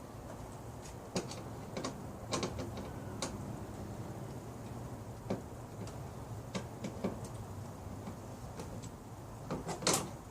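Irregular small clicks and knocks of a screw being taken out and a plastic part worked loose by hand, with a louder cluster of knocks near the end. A faint low hum runs underneath.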